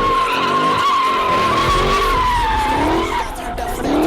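Car drifting: a long tyre squeal held near one pitch, sagging slightly partway through, with the engine revving up again near the end.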